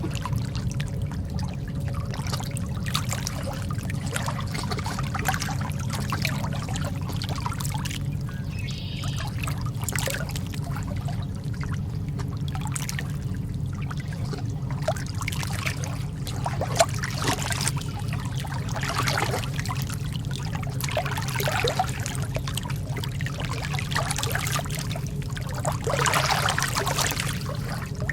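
Lake water lapping and trickling in small irregular splashes over a steady low rumble.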